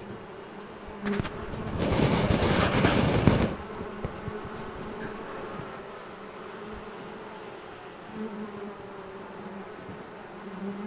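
Honeybee swarm buzzing, a steady wing hum with brief swells as single bees fly close; the roar of their wings has died down as the swarm settles into the hive box. About two seconds in, a loud burst of noise lasts a second and a half.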